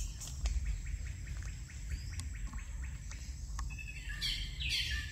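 Birds calling: a fast series of short ticking notes, then from about four seconds in a run of loud, quickly repeated calls that each fall in pitch. A steady low rumble lies underneath.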